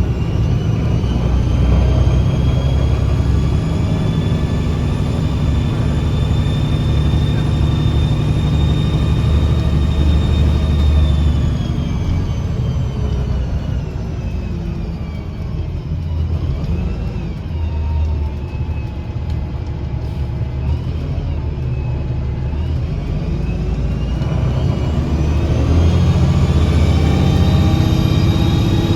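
Drivetrain of a 2009 Gillig BRT 40-foot diesel transit bus with a Voith transmission, heard while riding aboard: a low engine drone under a sharp, high whistling whine that holds while the bus is at speed, falls away as it slows about a third of the way in, and rises again near the end as it accelerates. The whistling is a strange sound from the drivetrain that comes up under acceleration and covers the engine at higher speed.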